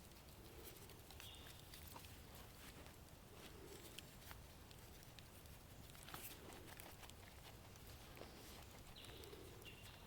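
Campfire coals crackling quietly, with sparse faint pops and ticks.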